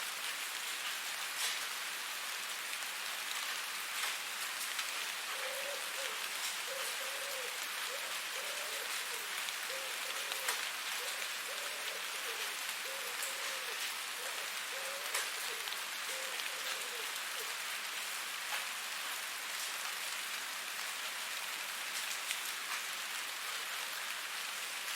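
Steady rain falling on a hard surface, a dense even hiss with individual drops ticking sharply now and then.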